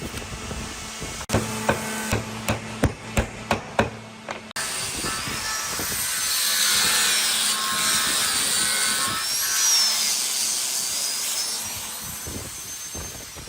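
Wood being worked with tools: about seven sharp hammer knocks over a steady hum, then a power tool cutting or sanding wood, a long hiss with a whine that rises and falls before fading near the end.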